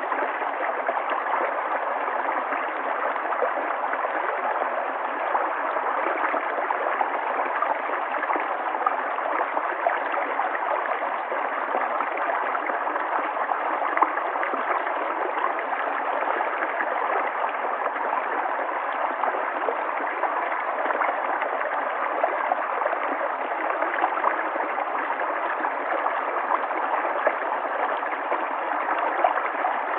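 River water flowing steadily over stones, a continuous splashing and gurgling rush.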